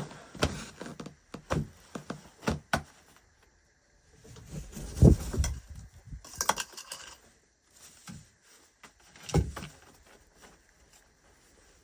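Irregular knocks and taps, with a louder dull thud about five seconds in and another about nine and a half seconds in.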